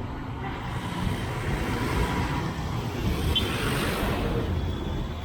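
Street traffic: a steady low rumble of engines, with a passing vehicle's noise swelling and fading around the middle.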